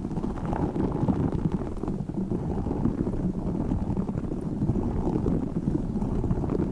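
Tiny spiky orbeez ball being squeezed and rubbed close to the microphone: a continuous dense, rapid crackling and squishing, mostly low-pitched.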